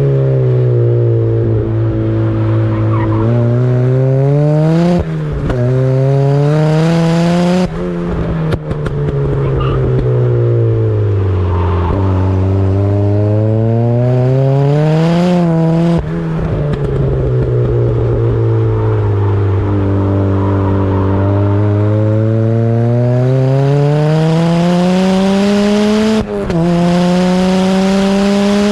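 Turbocharged Mazda MX-5's four-cylinder engine driven hard on track: the revs climb under acceleration, drop sharply at gear changes about five and eight seconds in, and fall away as it slows for corners. This cycle repeats through the run, with long climbs at about twelve to fifteen and twenty to twenty-six seconds in.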